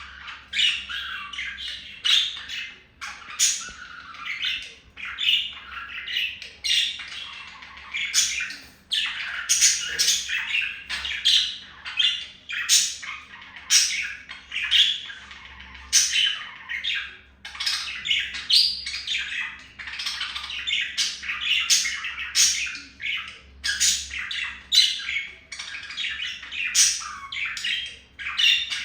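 Pet budgerigars chattering continuously, a dense run of squawks and warbles broken by sharp louder calls about once or twice a second.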